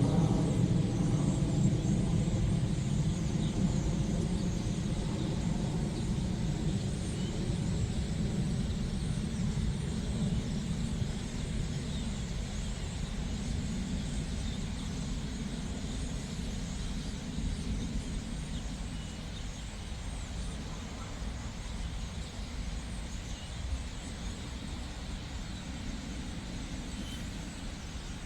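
A low engine rumble with a humming tone at first, fading away gradually.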